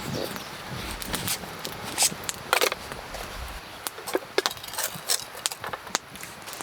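Camp gear being handled: scattered small clicks, taps and rustles, with a low rumble over the first half.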